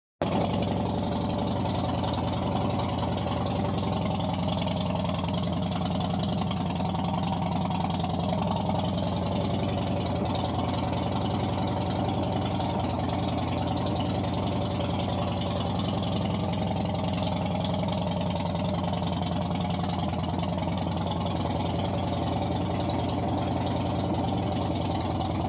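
Fuel-injected Harley-Davidson V-twin motorcycle engine idling steadily while it warms up.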